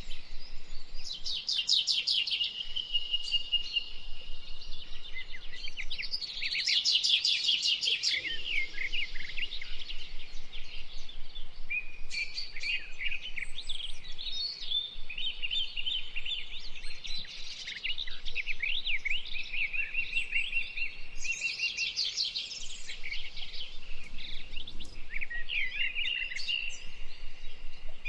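Several songbirds singing at once, an unbroken mix of chirps, whistles and rapid trills, with a few louder trilling phrases standing out.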